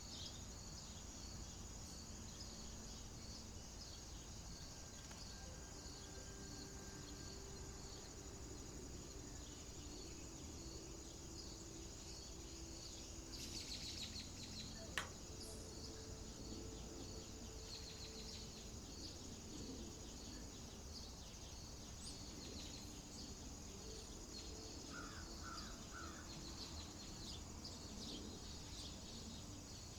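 Faint outdoor nature ambience: a steady high insect chirring with evenly repeated chirps over a low rumble, a few short bird calls in the last third, and one sharp click about halfway through.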